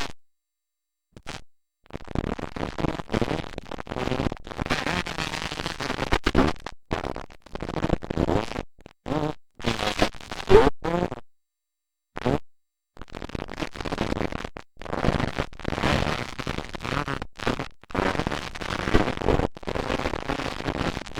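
Motocross dirt bike engines revving hard on the track, their pitch climbing and falling as the riders work the throttle. The sound cuts out to dead silence several times, with the longest break just after the start and another about halfway through.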